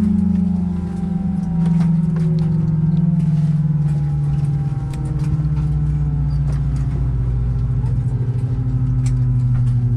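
Airbus A319 jet engines winding down, heard from inside the cabin: a steady hum falling slowly in pitch over a low rumble, with a few light rattles.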